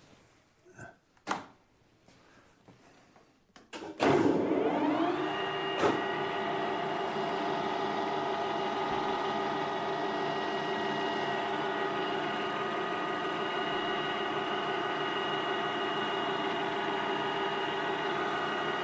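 A few light clicks and knocks, then about four seconds in a metal lathe's motor switches on. Its hum rises in pitch for about a second as the spindle spins up, then runs steadily.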